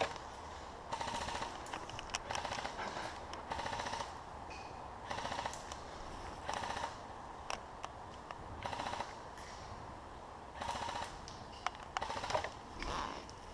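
Airsoft guns firing full-auto, in a dozen or so short bursts of rapid pops at irregular intervals.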